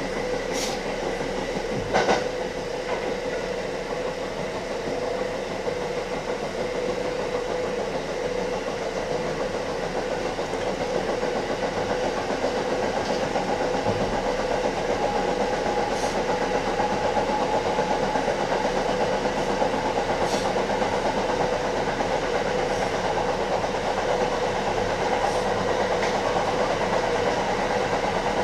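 Kintetsu electric train running on its rails, heard from inside the front car: steady running noise with a constant hum, a sharp click about two seconds in and a few fainter clicks later, growing slightly louder over the first half.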